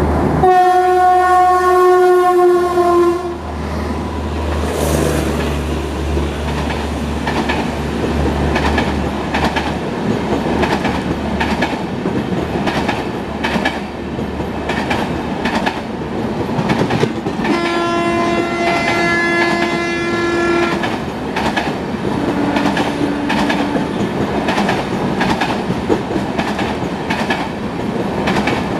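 WAP-7 electric locomotive sounding its horn for about three seconds as it passes at speed. Then comes a steady, rhythmic clickety-clack of the coach wheels over the rail joints as the express rushes past. A horn sounds again for about three seconds roughly halfway through.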